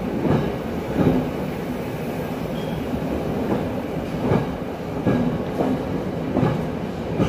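Class S10 diesel multiple unit's carriages rolling past alongside the platform: a steady rumble, with the wheels clacking over rail joints about once a second.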